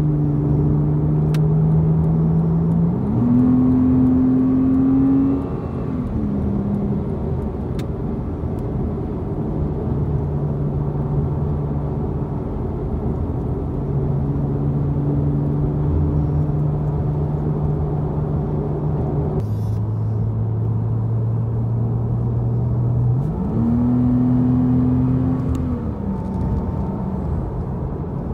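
Porsche Cayman's engine heard from inside the cabin at expressway speed over steady tyre and road noise. About three seconds in, and again near the end, the engine note steps up in pitch and gets louder, holds for a couple of seconds, then drops back.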